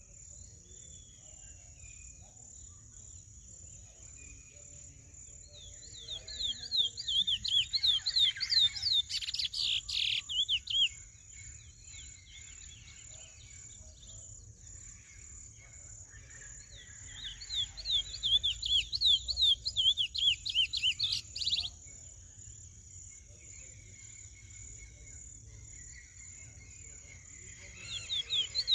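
Young male chestnut-bellied seed finch (curió) singing two phrases of rapid repeated notes, each about five seconds long, the first starting about six seconds in and the second about seventeen seconds in. A few soft chirps fall between the phrases.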